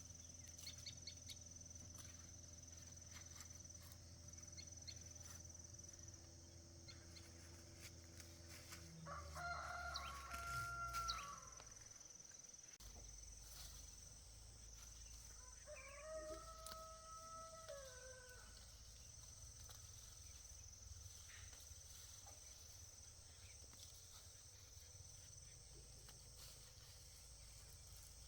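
A rooster crowing twice, about six seconds apart, each crow lasting roughly two seconds. Underneath is a faint, steady high-pitched insect chirring and a low hum.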